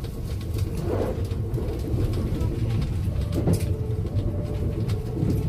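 Steady low rumble of a passenger train heard from inside the carriage, with a faint steady hum above it.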